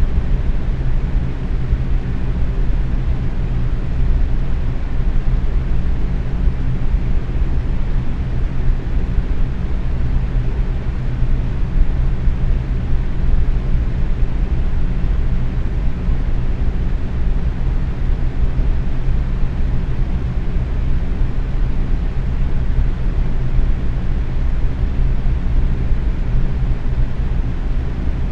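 Box fan running at medium speed: a steady rush of air over a low, even hum.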